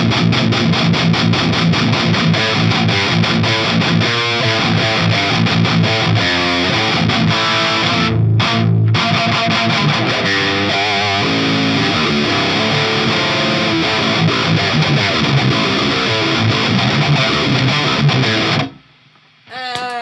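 Electric guitar with humbucker pickups played through a Soldano SLO-100 clone amplifier, distorted: fast picked riffs with a couple of short breaks around the middle. The playing stops suddenly near the end, and a new ringing note starts just after.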